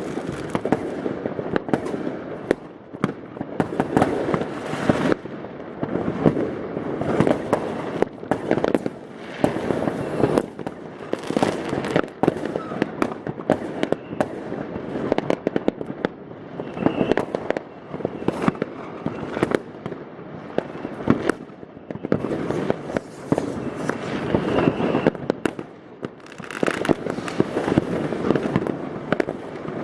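Many fireworks and firecrackers going off at once in a dense, unbroken stream of bangs, pops and crackling.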